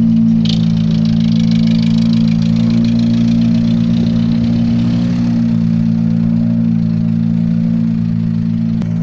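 A heavy diesel engine, from a dump truck or the excavator loading it, running steadily at a constant speed.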